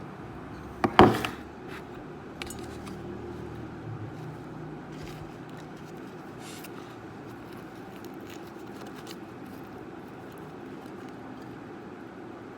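Kitchenware being handled: a loud clatter of several quick metallic hits about a second in, then scattered light clicks and taps. A steady background hum runs underneath.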